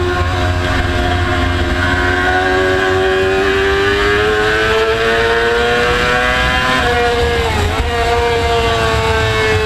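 Motorcycle engine running at high revs on a race track, its pitch climbing slowly for several seconds, dipping briefly about three-quarters of the way through, then holding steady, over a steady low rumble.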